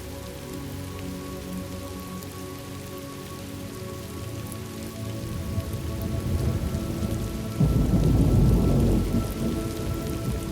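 Thunderstorm ambience: steady rain with a rolling rumble of thunder that builds about halfway through, swells loudest near the end, then eases off.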